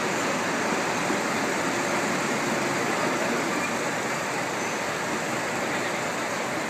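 Diesel railcars running at a station platform: a steady, even engine noise with no distinct clanks or wheel sounds.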